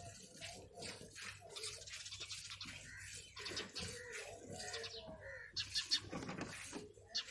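Baby birds in the nest chirping and cheeping over and over in short, high calls.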